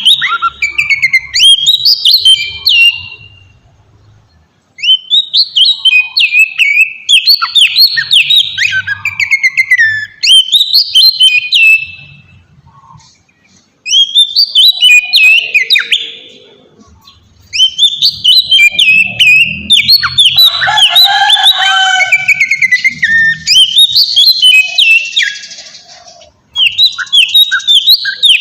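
Oriental magpie-robin (kacer) singing loudly in bouts of rapid, varied chirps and whistled phrases, broken by short pauses. This is the lure song played to make another kacer answer.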